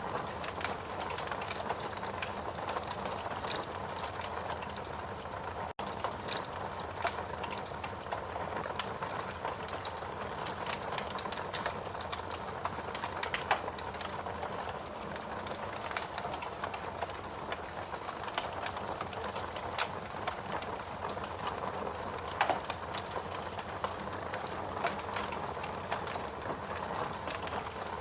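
Wood log fire burning in a fireplace: a steady rushing hiss with frequent small crackles and a few sharper pops. The sound cuts out for an instant about six seconds in.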